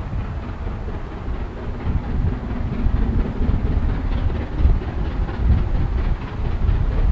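Steam-hauled passenger train running past, its wheels clicking over the rail joints, with wind gusting on the microphone.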